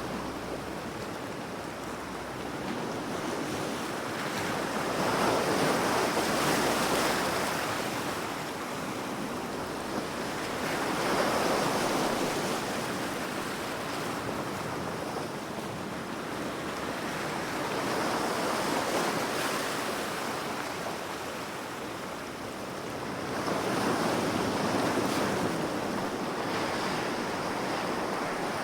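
Ocean waves breaking and washing onto the shore, each wave swelling and fading about every six seconds over a steady hiss of surf.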